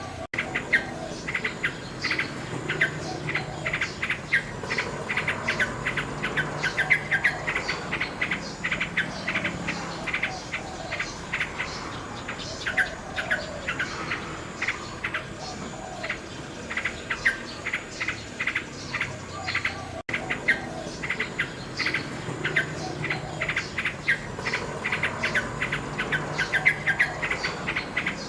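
Common nightingale singing in rapid runs of repeated clicking and whistled notes over a steady chorus of insects, with a brief cut-out about twenty seconds in.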